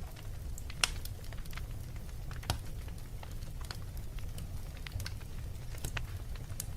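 Wood fire in a fireplace crackling, with irregular sharp pops over a steady low rumble; the loudest pops come about a second in and again a little after two seconds.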